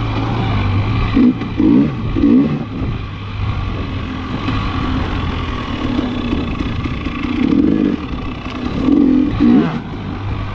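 KTM 300 XC-W TPI's single-cylinder two-stroke engine running under load in deep sand, surging up and down in pitch in short bursts several times.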